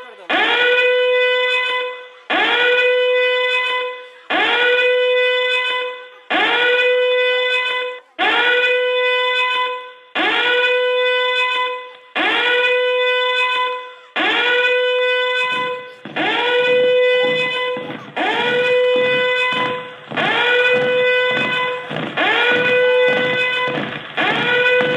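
Siren-like alarm tone played over the sound system: a tone swoops up and holds steady for under two seconds, then repeats about every two seconds, a dozen times. About 15 seconds in, a lower rumbling layer joins underneath.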